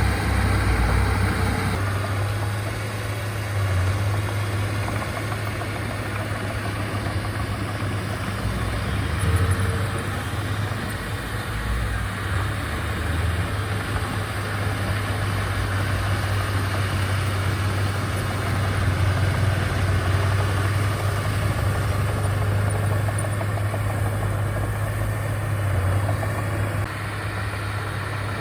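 Heavy earthmoving machinery's diesel engine running steadily, a constant low hum with small swells in level.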